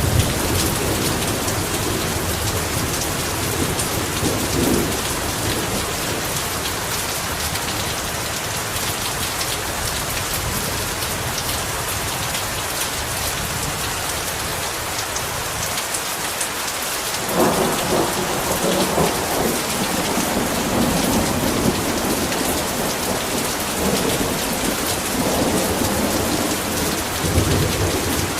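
Heavy rain falling steadily, with thunder rolling low in the first few seconds and again, in several swells, from a little past halfway to the end.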